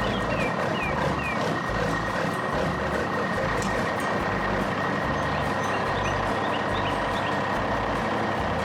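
Excavator engine running steadily under a constant high-pitched whine, with a few short falling chirps in the first second or so and again mid-way.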